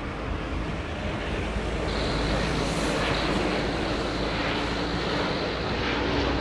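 Jet airliner on approach to land, its engine noise a steady rush that grows louder, with a high whine joining about two seconds in.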